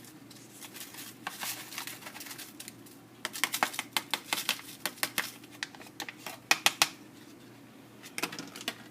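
Rapid, irregular crinkling clicks of a seasoning packet being handled and emptied, busiest in the middle stretch with a few more near the end.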